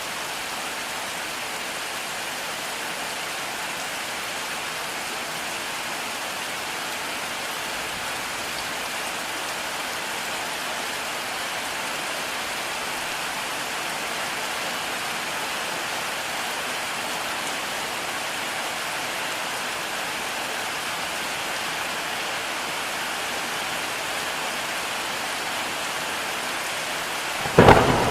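Heavy rain falling steadily and evenly, then a sudden loud thunderclap near the end that rumbles on.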